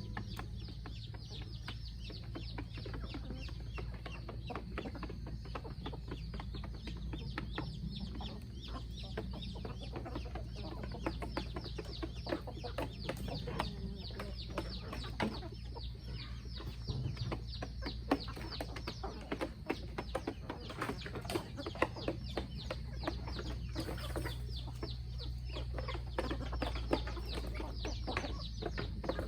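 A flock of chickens clucking, with a dense run of quick ticks throughout over a steady low rumble.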